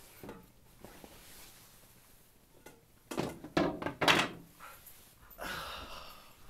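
A door being shut: a cluster of knocks and thumps about three to four seconds in, followed by a brief rustle.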